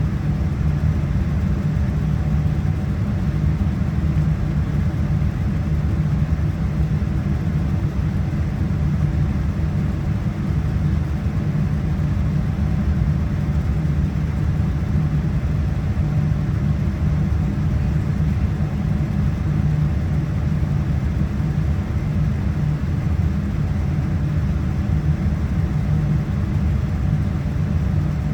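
Steady low rumble of a Boeing 787-9's Rolls-Royce Trent 1000 engines and airflow heard inside the passenger cabin, holding level with no rise or fall.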